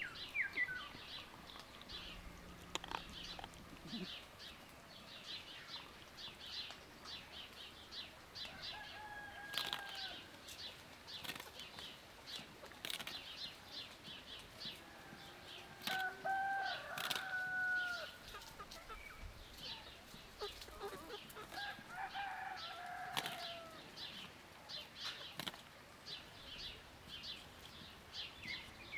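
Small birds chirping rapidly and continuously, with a few longer, drawn-out calls from larger birds and scattered sharp clicks.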